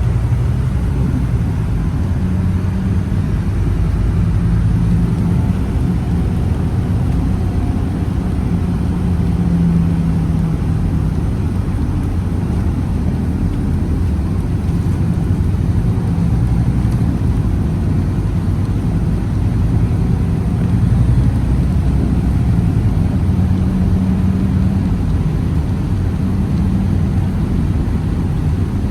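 Scania Citywide CNG city bus under way: a steady low engine drone with road rumble, the engine note swelling and easing several times as it pulls and backs off.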